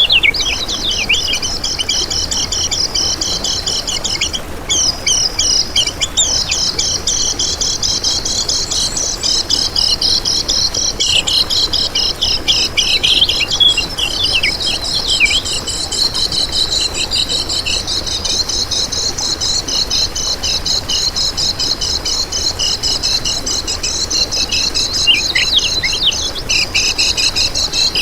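Kecial kuning singing: rapid, high, chattering twitters and trills that run on without a break, with several phrases overlapping.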